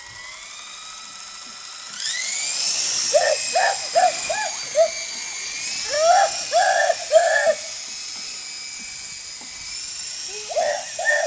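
Small electric remote-controlled helicopter's motor and rotor spinning up, a high whine rising over about two seconds, then holding steady. Over it come several runs of short, higher-pitched yelps.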